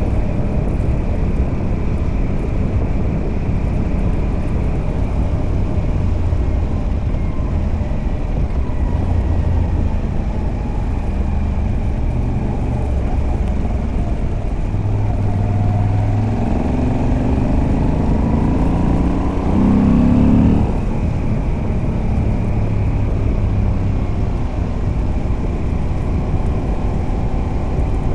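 Moto Guzzi V85TT's air-cooled V-twin, fitted with a stock silencer and a Mistral de-cat pipe, running on the road under way. About two-thirds of the way in, the engine note climbs as the bike accelerates. It is loudest just before it drops back off, then returns to steady running.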